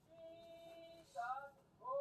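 A voice singing, holding one long note for about a second, then a few short gliding notes near the end.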